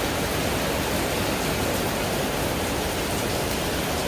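Hard rain pouring down, a steady, even hiss.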